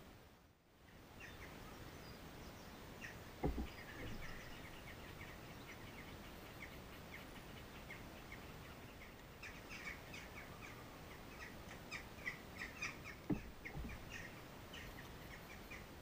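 Small garden birds chirping in many quick, short calls, sparse at first and busier in the second half. Two dull low thumps, about three and a half seconds in and again about thirteen seconds in, are the loudest sounds.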